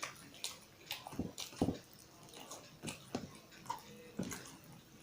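Close-up eating sounds: wet chewing and lip smacks from a mouthful of curry and rice, in short irregular bursts.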